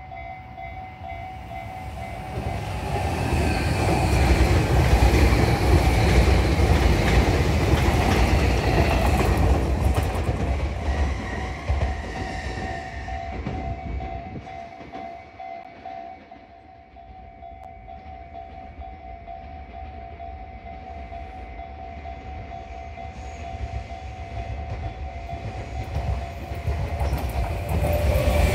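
Electric trains running on the line. One passes loudly in the first ten seconds with a rolling rail rumble, then fades. Another train, a red-and-white Tobu limited express Ryōmō, approaches and grows steadily louder near the end.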